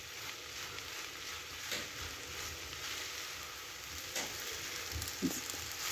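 Moong dal halwa sizzling in ghee in a nonstick pan while a silicone spatula stirs and scrapes through it, with a few short scrapes standing out. This is the roasting stage after sugar is added, cooking until the sugar has fully melted.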